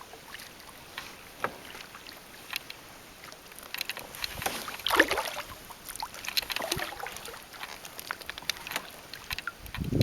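Kayak paddle dipping into calm water, with splashes and drips off the blade; a few strokes come close together around the middle, the loudest about halfway through.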